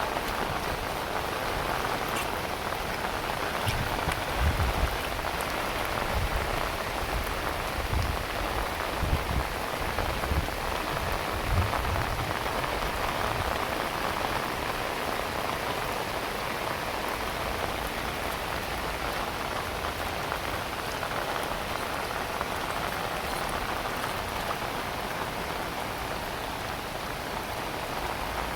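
Heavy rain falling steadily, an even hiss of drops on surfaces. Several short low rumbles come and go in the first half.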